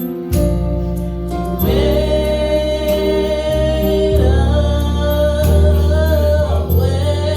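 Gospel music: voices holding long sung notes with vibrato over a bass line and guitar accompaniment.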